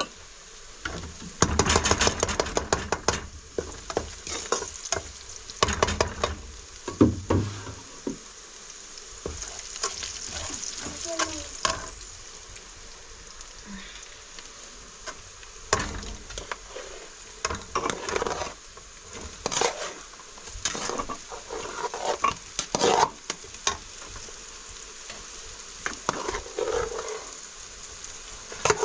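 A utensil stirring and scraping in a cooking pot, with irregular clinks and clatter in clusters over a faint steady sizzle.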